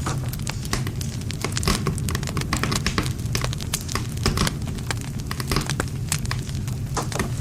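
Wood fire crackling, with many sharp irregular pops and snaps from burning wood over a steady low rumble of the flames.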